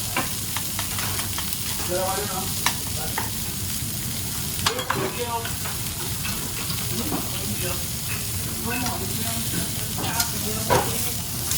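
Food sizzling as it fries, a steady hiss with scattered sharp clicks and knocks of utensils against cookware.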